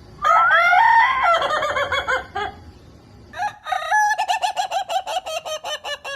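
A rooster crowing twice. Each crow opens on a held, gliding note and breaks into a fast stuttering run of short notes. The second crow starts about three and a half seconds in and carries on past the end.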